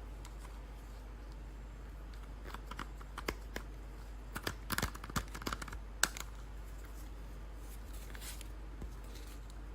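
Action-figure toy packaging being handled and opened: a quick run of small clicks and crinkles in the middle, ending with one sharp click, over a steady low hum.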